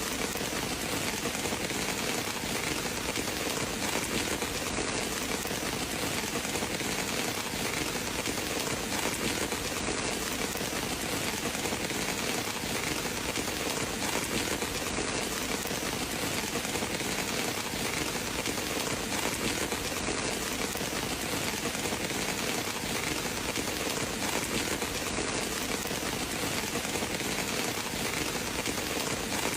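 Steady rain falling as an even, unbroken hiss, with no change in strength.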